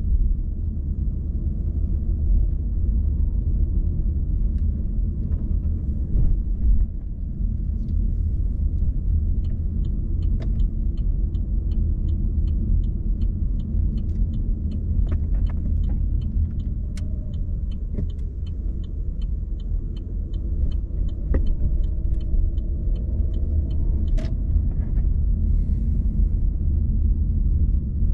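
Car driving at low speed, with a steady low road and engine rumble. Through the middle, a regular light ticking at about two a second runs for some fifteen seconds and then stops.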